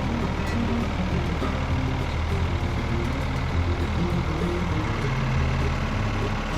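An engine running steadily, with background music over it.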